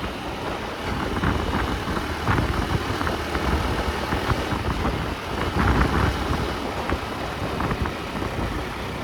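A moving road vehicle: a steady low rumble of engine and road noise, with scattered short clicks and rattles.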